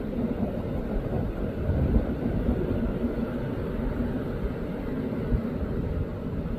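Flooded river rushing past: a steady, low, rumbling roar of water with small uneven surges.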